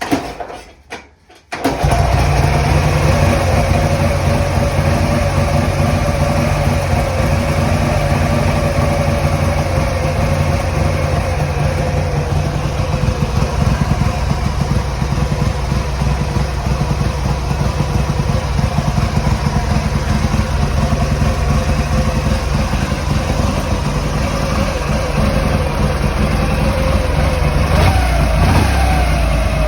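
1964 Ural M-62 motorcycle's flat-twin engine starting: two short bursts of cranking, then it catches about a second and a half in and idles steadily.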